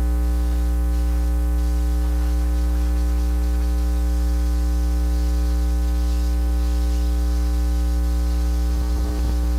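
Steady electrical mains hum with a stack of buzzing overtones and a hiss, from the sewer inspection camera's audio feed. A brief faint disturbance breaks in near the end.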